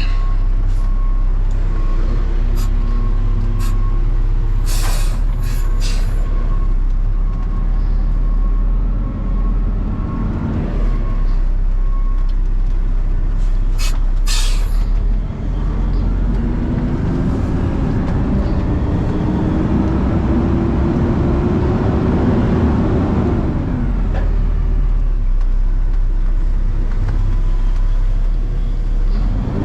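Heavy truck's diesel engine running, heard from inside the cab. About two-thirds of the way through it pulls up through a gear, its pitch rising steadily, then dropping at the shift. Earlier there are a few short air hisses.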